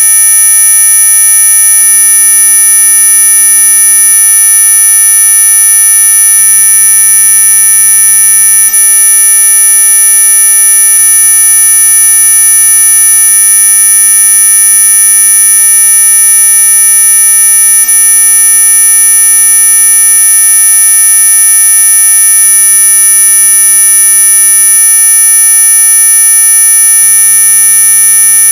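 Synthetic high-pitched tone track played as an 'ultrasonic' mosquito repellent: several pure tones held together in one loud, unchanging shrill whine, the strongest pitched very high near the top of hearing.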